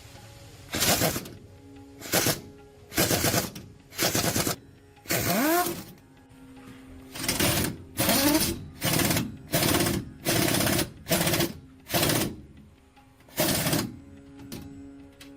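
Impact wrench on a heavy truck's wheel lug nuts: about a dozen short hammering bursts, each about half a second long and roughly a second apart, a few ending with a swooping whine as the tool spins down.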